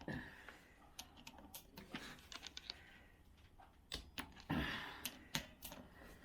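Faint scattered clicks and light taps of small metal parts and hand tools being handled during motorcycle engine assembly, with a brief rustle about four and a half seconds in.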